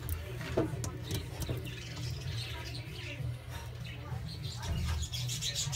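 Birds chirping with short, high calls, busiest near the end, over a steady low hum.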